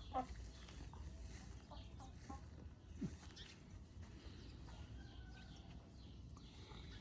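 Faint, scattered clucks and calls from backyard fowl, with a few distant bird chirps over a low steady background.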